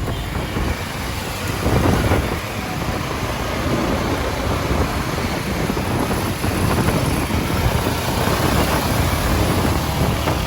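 Steady rush of wind and road noise from a motorcycle ride through traffic, with the low rumble of engines and no single distinct event.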